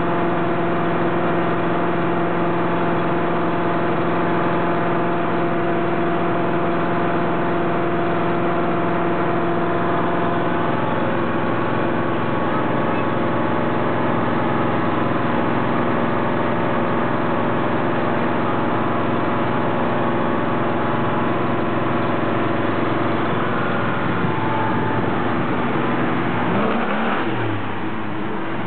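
GTO engine running steadily through a new Pypes Street Pro exhaust, its idle not yet adjusted. The engine note wavers and shifts in pitch near the end.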